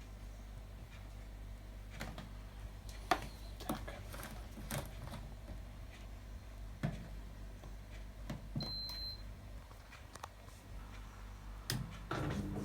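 Atlant washing machine: scattered light clicks and knocks over a low steady hum, with one short high electronic beep about nine seconds in. Just before the end, a louder, steadier machine sound starts.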